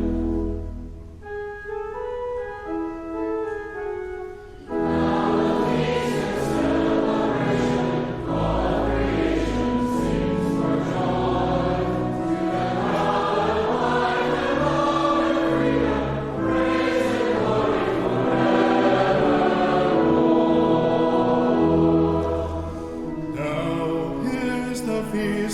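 Church music: a brief instrumental introduction, then from about five seconds in a congregation and choir singing a liturgical hymn of praise with instrumental accompaniment.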